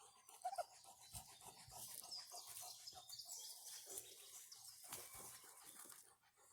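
Faint animal sounds near silence, with a couple of short high calls about half a second in.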